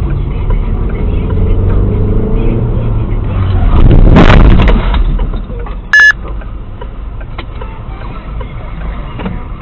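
In-car dashcam audio of engine and road noise as the car drives. A loud rush of noise swells and peaks about four seconds in, and a short high beep sounds about six seconds in.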